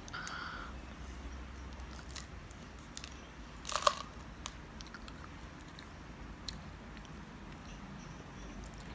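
Close-up crunching and chewing of a hollow 'space candy' shell in the mouth, as scattered small cracks with one loud crunch a little under four seconds in.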